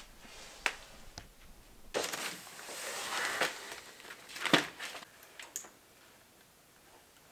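Scattered sharp clicks and light knocks over a stretch of soft scraping noise, the loudest click a little past the middle. It goes quiet for the last two seconds.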